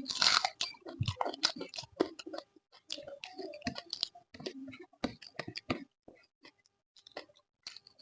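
Close-miked mouth sounds of a person eating: wet chewing with many quick, irregular lip-smacking clicks, thinning out a little past the middle.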